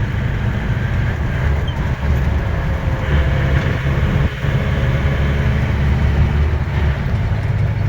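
Restored Mahindra Major jeep driving at speed on a paved road: steady engine rumble with road noise.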